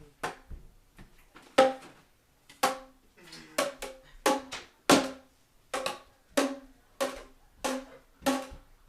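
Plastic Boomwhacker tube being swung and struck again and again, about a dozen hollow, pitched bonks, all on the same note, spaced roughly one every half second to a second.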